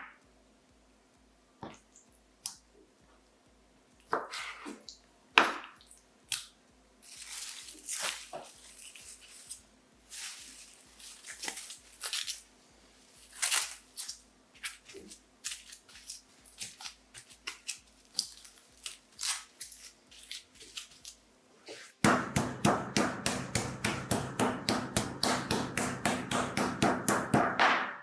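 Kitchen food-prep handling: scattered clicks, knocks and scrapes of utensils and containers. About three-quarters of the way through, this gives way to a fast, even tapping, several strokes a second.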